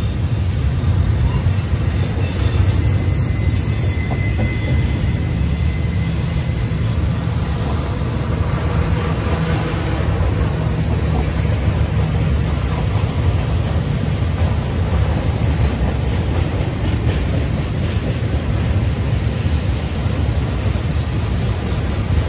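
Intermodal freight train's container and trailer cars rolling past close by: a steady low rumble of wheels on rail, with a faint high wheel squeal a few seconds in.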